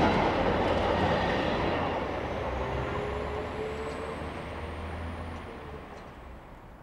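Empty container flat wagons of a freight train rolling over the rails as the last wagon passes, the rumble fading steadily away. A faint thin squeal comes and goes in the middle.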